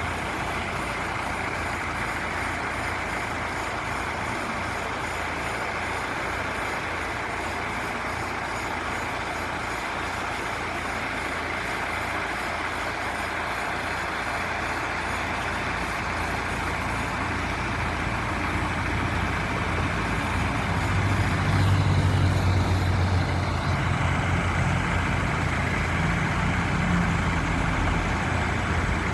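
Vactron vacuum truck running steadily. About three quarters of the way through, its engine note deepens and gets louder and stays up.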